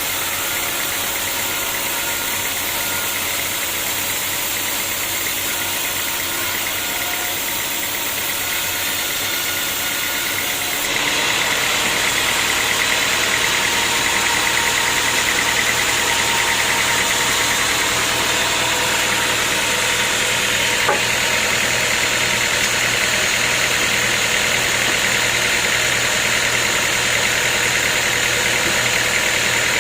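Sawmill machinery running steadily. About eleven seconds in, the sound suddenly gets louder and harsher and then holds steady, with one brief click later on.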